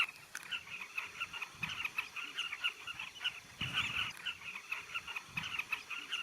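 A colony of southern carmine bee-eaters calling, many short overlapping calls chattering without a break.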